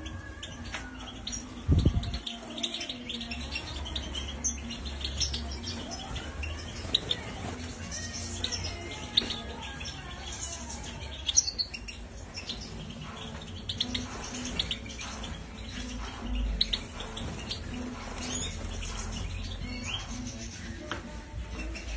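Many small cage birds chirping and calling in an aviary, with short high calls all the way through. There is one dull thump about two seconds in.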